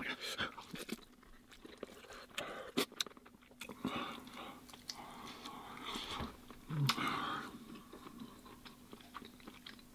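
Someone chewing mouthfuls of spicy fried instant noodles eaten with chopsticks, with scattered small clicks.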